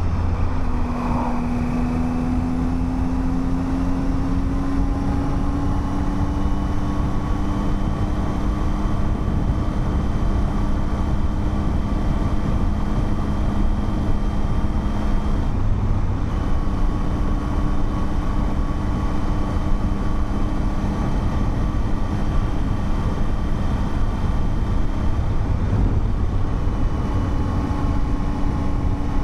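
Motorcycle engine running on the move with wind and road noise, its pitch slowly climbing over the first few seconds and shifting once about halfway through, as at a change of throttle or gear.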